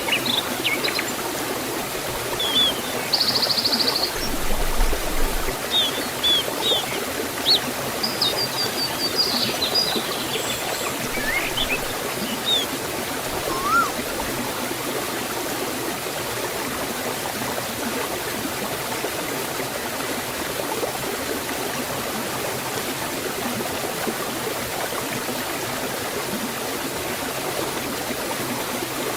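Steady rush of a forest waterfall and stream. Over it, several short bird chirps and a brief trill in the first half.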